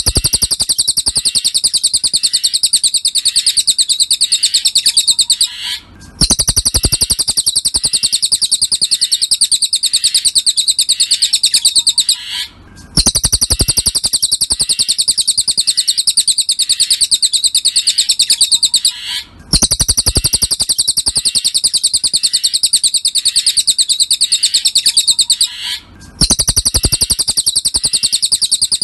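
Cililin song: a fast, continuous run of high chirping notes, repeated in phrases of about six seconds with a brief break between them, as a looped training recording (masteran).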